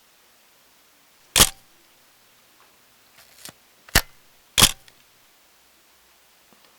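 Three loud, sharp knocks: one, then two close together about two and a half seconds later, with a few fainter clicks between them.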